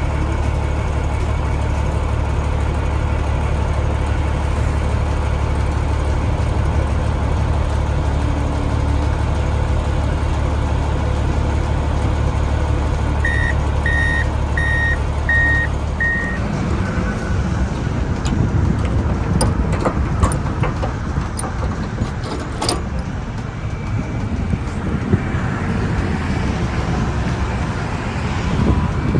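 Dump truck's diesel engine running with a steady drone, and a backup alarm beeping five times about halfway through. After the beeps the steady drone gives way to a rougher, uneven rumble with a few scattered clicks and knocks.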